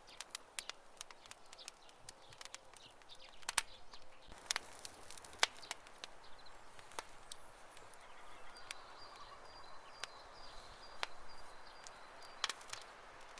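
Campfire crackling, with irregular sharp pops and snaps from burning wood over a soft hiss. A faint, high, pulsing whistle comes in for about three seconds past the middle.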